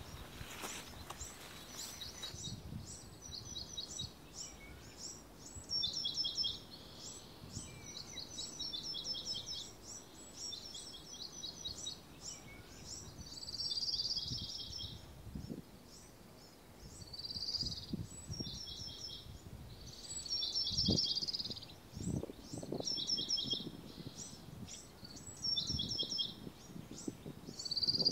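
Birds chirping in quick repeated runs of short high notes, several times over, with a few soft low thumps between them.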